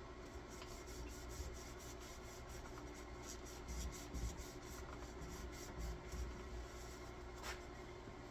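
Quick, even rubbing strokes on a wooden axe handle, about three a second, with one sharp tick near the end.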